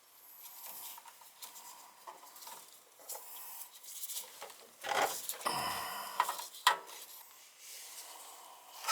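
Hands working with wires and tools: irregular rustling and scraping, with a few sharp clicks and knocks about five to seven seconds in.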